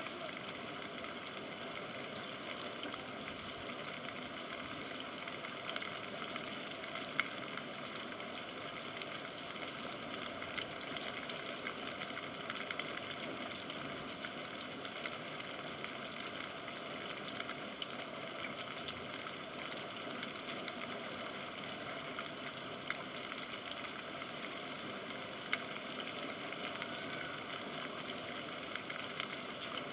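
Steady rain, a continuous even hiss with scattered sharp drop ticks.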